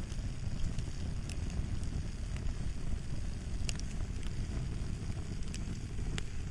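Wood fire crackling: a steady low rumble with sharp pops and snaps every second or so.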